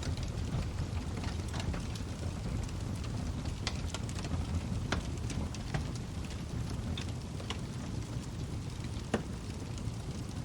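Log fire burning with a steady low rumble and scattered crackles and pops, one sharper pop near the end.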